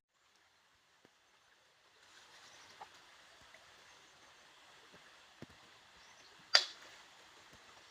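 Faint steady outdoor hiss with scattered light clicks, and one sharp knock about two-thirds of the way through.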